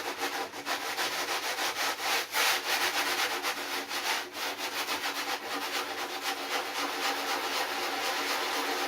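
Sanding pad rubbing down the cured pour-in foam and wooden stringer of a surfboard deck, a steady gritty hiss.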